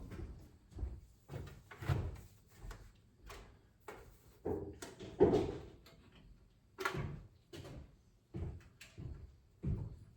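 Irregular knocks and clunks, roughly one a second, of hands and tools handling the metal housing and parts of a microwave oven being taken apart, with a louder knock about five seconds in.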